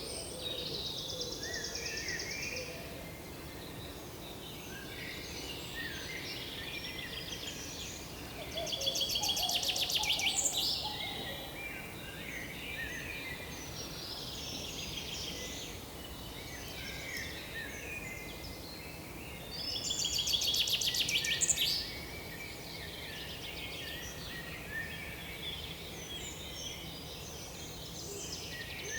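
Several songbirds calling and chirping in woodland, with a louder, rapid trilling song twice, about nine and about twenty seconds in, each lasting about two seconds.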